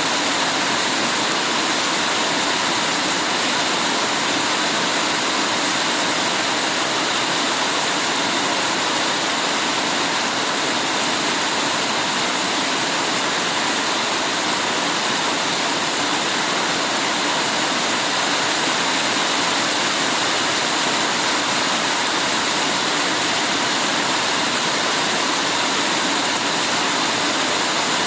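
Heavy rain pouring down in a steady, dense hiss, with no single drops or breaks standing out.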